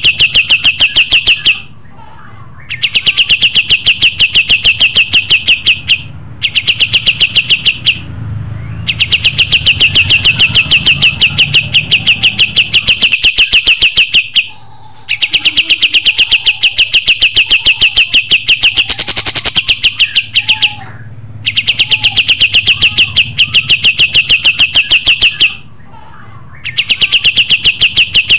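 Kapas tembak songbird singing loudly: long trills of rapid, evenly repeated sharp notes, phrase after phrase with brief pauses between.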